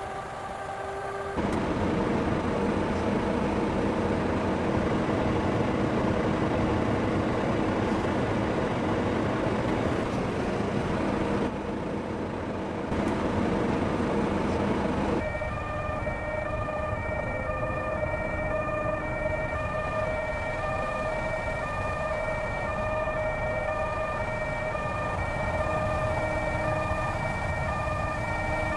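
Steady vehicle road noise, then from about halfway a two-tone emergency siren alternating high and low about once a second.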